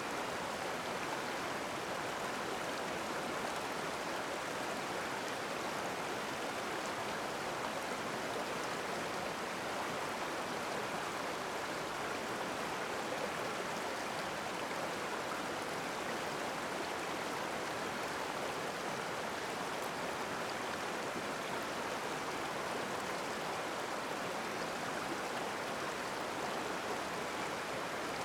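Steady rushing of flowing stream water, an even noise with no distinct splashes or knocks.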